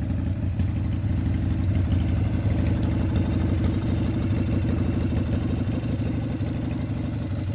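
1995 Harley-Davidson Springer Softail's 80-cubic-inch Evolution V-twin idling steadily with a quick pulsing beat, warming up after a cold start.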